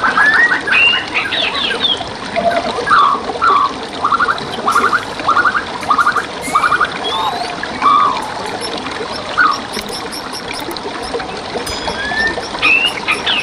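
Songbirds calling over steadily trickling stream water: a run of repeated short chirps about twice a second, thinning out midway, then more calls near the end.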